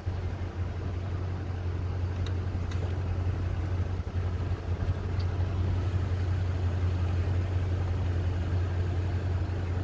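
Steady low hum of a car's engine and road noise, heard inside the cabin while driving slowly, with a few faint clicks.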